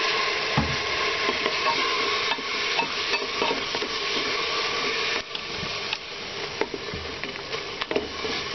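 Spiced tomato-onion masala sizzling in oil with a splash of water in an aluminium pressure cooker, stirred with a wooden spatula that scrapes and knocks against the pot. The sizzle drops in level about five seconds in.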